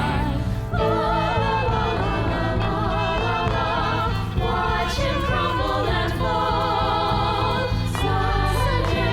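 Music: a choir singing with vibrato over a steady low instrumental accompaniment.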